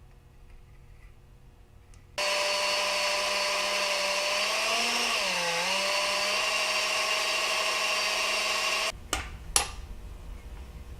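Electric drill running for about seven seconds as it drills a hole into the cast-iron casting of a Bridgeport milling machine, its whine sagging in pitch briefly midway as the bit bites. It then stops abruptly, followed by two sharp clicks.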